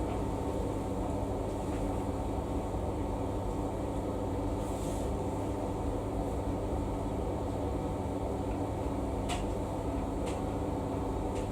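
Samsung washing machine running a wash cycle: a steady mechanical hum and rumble, with a couple of faint clicks near the end.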